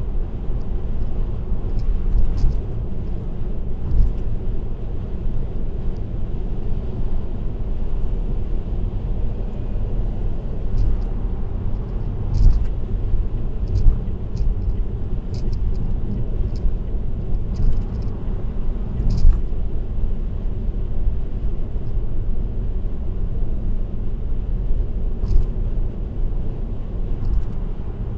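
Steady low road noise of a car driving at expressway speed, tyres and engine rumbling, with short knocks scattered through it.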